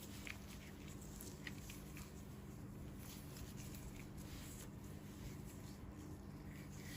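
Faint, scattered light clicks and soft rustles of close-up hand handling, over a steady low hum.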